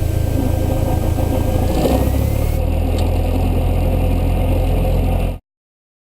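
Cessna 172 SP's four-cylinder Lycoming engine running steadily at low taxi power, a low drone heard inside the cabin, then cutting off abruptly about five seconds in.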